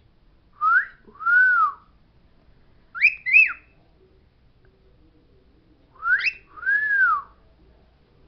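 Pet talking bird whistling three two-part phrases, each a short rising note followed by a rising-and-falling note.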